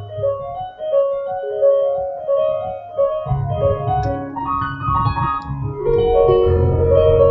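Keyboard music: a melody of short piano-like notes over held low bass notes, the bass growing stronger about three seconds in.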